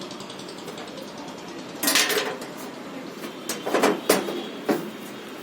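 A few short scrapes and knocks of hard parts being handled during washing machine drum repair work, the loudest about two seconds in and several more near the end, over a steady background noise.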